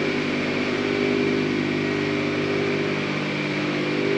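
A steady mechanical drone with several held tones and no change in pitch, like an engine or machine running.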